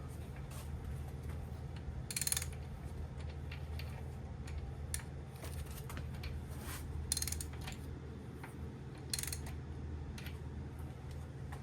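Ratchet wrench clicking in short runs on the main bearing cap bolts, with three louder runs and scattered small clicks, over a steady low hum.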